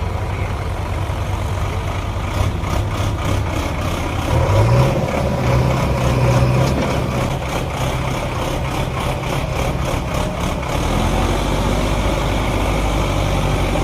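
Sonalika DI 55 tractor's four-cylinder 4087 cc diesel engine running under load with a full load of soil. It revs up about four and a half seconds in, holds for a couple of seconds, then drops back to a steady drone.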